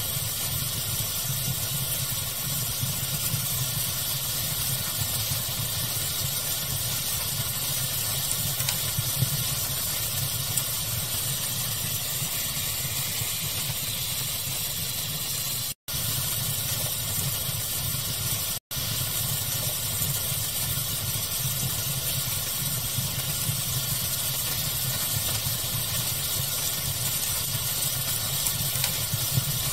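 Steady hiss of a fire ambience mixed with pink noise, with only a few faint crackles. The sound cuts out for an instant twice, a few seconds apart, about halfway through.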